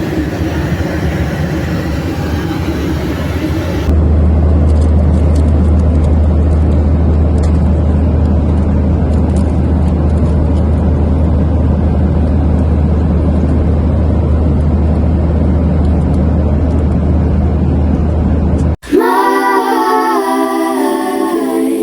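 Steady deep rumble and road noise of a moving vehicle heard from inside, following a cut from a different steady noisy background. A few seconds before the end it cuts to pop music with singing.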